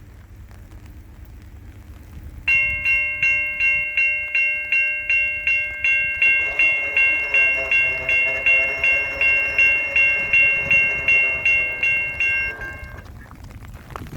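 Railroad crossing bell starts about two and a half seconds in and rings at about two and a half strokes a second over wind and rain noise, stopping near the end. From about halfway, the sound of an approaching train builds beneath it.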